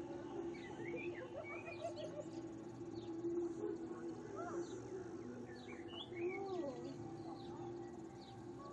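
Birds chirping and calling in many short, warbling notes, over a steady low hum.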